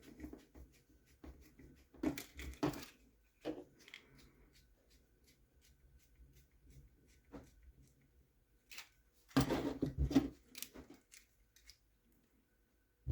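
Small plastic RC-truck parts and screws being handled and fitted by hand: scattered light clicks and rattles, with a louder burst of clattering about nine to ten seconds in.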